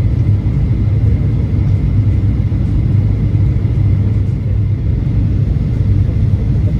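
Steady low rumble of jet airliner cabin noise, the engines and airflow heard from a passenger seat during the descent, with a faint steady high tone above it.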